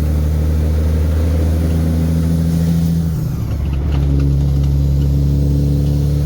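Heavy diesel truck engine pulling steadily. About three seconds in its note breaks off and dips briefly, then it picks up again at a slightly lower pitch.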